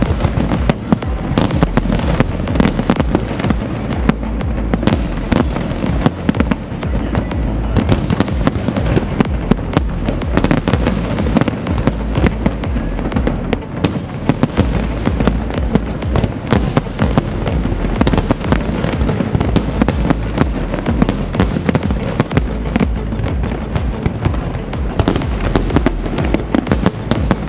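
Fireworks display going off in a rapid, unbroken run of bangs and crackles, many a second.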